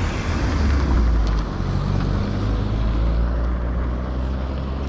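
Street traffic: a motor vehicle's engine running close by with a steady low hum and road noise, swelling slightly about a second in.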